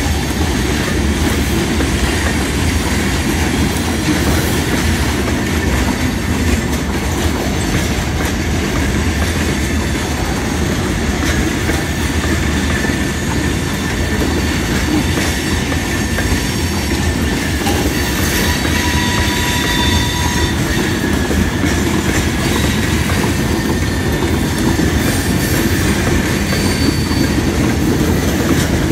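Hopper cars of a long, heavy stone train rolling past: a steady rumble and clatter of wheels over the rail. Thin wheel squeals rise faintly above it about two-thirds of the way through and again near the end.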